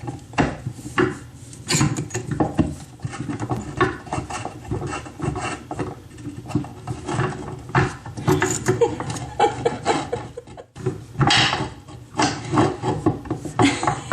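Irregular scraping, rubbing and knocking of hands and a tool working at the fittings under a bathroom sink while trying to loosen them. There is a brief pause near the end, then a louder stretch of scraping.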